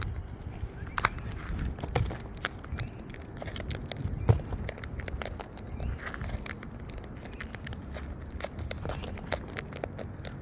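Birds' beaks cracking and crunching snack food, a scatter of irregular sharp clicks and crunches over a low rumble.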